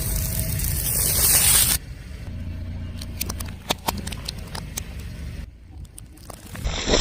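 Car tyre rolling over and crushing objects. A loud hissing rush over a low rumble cuts off abruptly near two seconds in; after that the rumble goes on with scattered sharp cracks and crunches.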